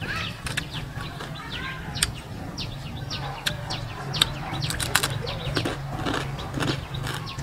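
Crispy crab shells crunching and crackling as they are bitten and chewed, in quick irregular sharp crunches, over a low steady hum.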